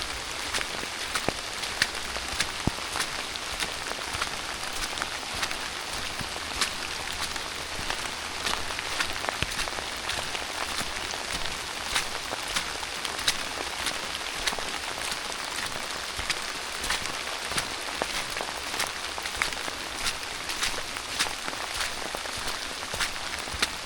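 Steady rain falling, an even hiss with frequent sharp taps of drops striking close by.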